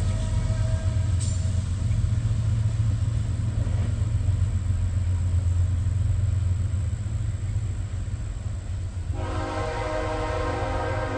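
A train running by with a steady low rumble; about nine seconds in its horn starts sounding, a held chord of several tones.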